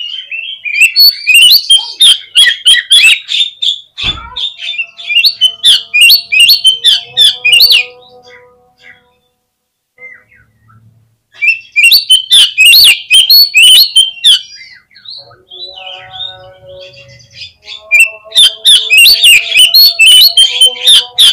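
Oriental magpie-robin song: three loud bouts of rapid, varied chirps and whistles, the first near the start, one in the middle and one near the end. Between the bouts, fainter steady lower whistled notes carry on.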